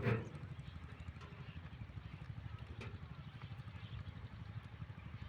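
Diesel engine driving a water pump, running steadily with an even, rapid chugging beat. A brief louder sound comes at the very start.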